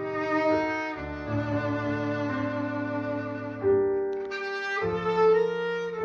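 Violin playing a slow melody of held notes, changing every second or two, over a lower accompaniment.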